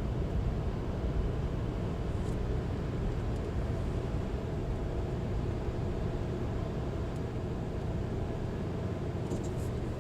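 Steady low rumble of a VIA Rail passenger train, with a few light clicks near the end.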